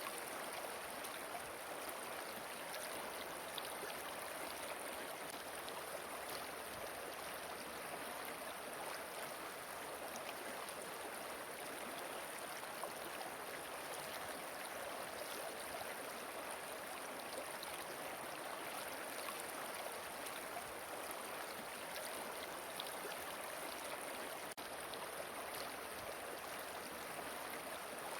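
River water flowing over rocks, a steady, even rush with no breaks or changes.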